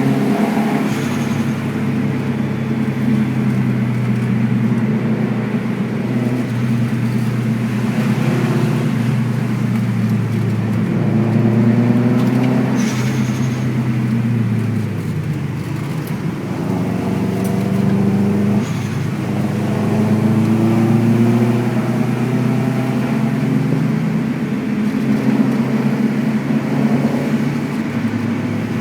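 Subaru WRX's turbocharged flat-four engine driving along, its revs climbing under acceleration and dropping at each gear change several times.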